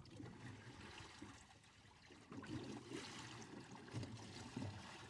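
Faint trickling and sloshing of water, soft and irregular.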